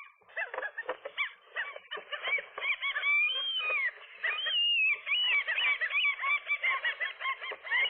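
Several gulls calling rapidly and without pause, their calls overlapping, as a nesting pair fights off an intruder over the nest. A longer drawn-out call that rises and falls stands out about three to five seconds in.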